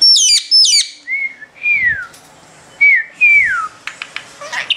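Ring-necked parakeet calling and whistling: two sharp, high chirps at the start, then two whistled phrases, each a short even note followed by a longer whistle falling in pitch. A few small clicks near the end.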